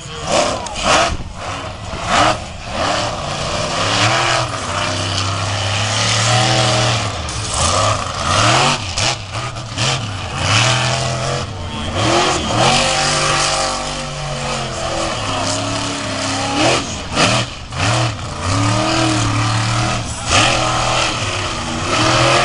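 Monster truck engine revving hard, the pitch rising and falling many times in quick succession as the throttle is blipped and held.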